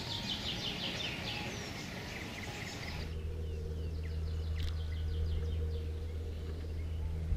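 Small birds singing with quick trills and chirps. About three seconds in the sound changes to a steady low hum, with the birdsong fainter behind it.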